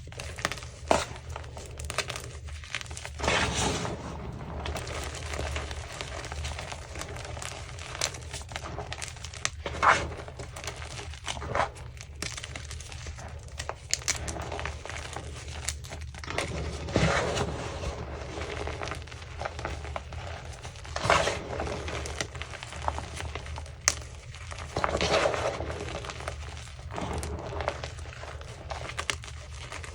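Chunks of gym chalk being crushed and crumbled, giving a steady run of dry crunching and crackling with irregular sharp snaps as pieces break. A steady low hum runs underneath.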